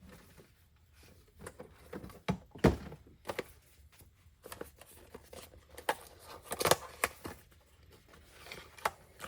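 Handling sounds while the worn abrasive belt on a belt knife sharpener is swapped for a new one: scattered clicks and knocks with some rustling, the two loudest knocks about three seconds and seven seconds in.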